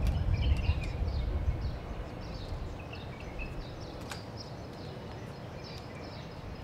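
Birds chirping with many short, repeated falling calls over outdoor background noise. A low rumble fades out over the first second or two, and a single sharp click comes about four seconds in.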